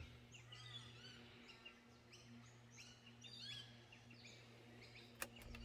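Faint chorus of small birds chirping and calling in many short, quick notes, over a low steady hum, with one sharp click near the end.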